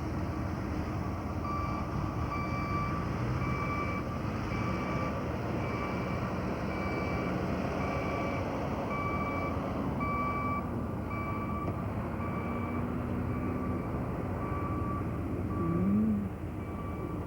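Backup alarm of a heavy vehicle beeping steadily, about two beeps a second, over the steady rumble of engines and traffic, typical of snow-clearing trucks or loaders reversing. A brief louder sound that slides up and down in pitch comes near the end.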